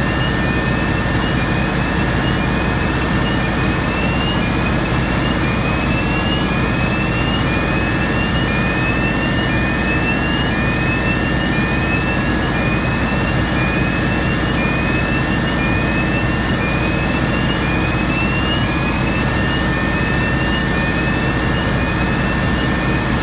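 Cummins QST30-G5 V12 diesel engine of a 1000 kW generator set running steadily. A constant high whine sits over it, and a short rising chirp repeats a little more than once a second.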